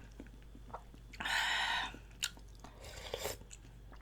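Close-miked chewing of chicken feet in broth, with a louder drawn-out wet sound lasting most of a second about a second in, then a sharp click and smaller mouth clicks.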